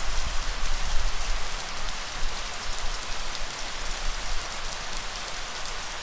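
Steady rain falling and pattering on surfaces, with a low rumble underneath that is strongest in the first second or so.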